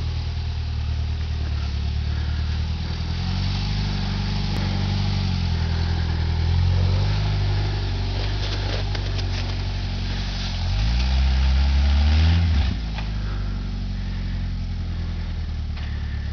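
Jeep rock crawler's engine running at low revs, the pitch rising and easing a few seconds in, then a harder rev a little past the middle that drops off suddenly.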